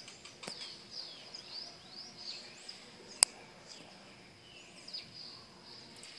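Small birds chirping and calling in short rising and falling notes, over a faint steady high-pitched tone. A single sharp click about three seconds in is the loudest sound.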